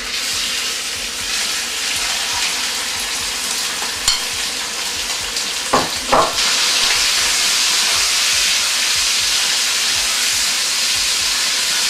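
Marinated chicken pieces sizzling in hot peanut oil in a stainless steel wok, the frying hiss growing louder a little past halfway. A few short knocks sound near the middle.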